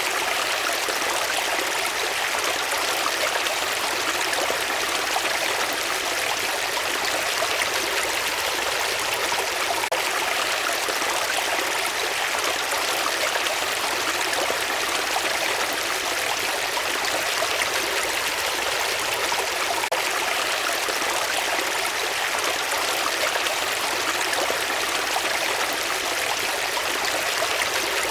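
Running water, a steady, even rushing that does not change.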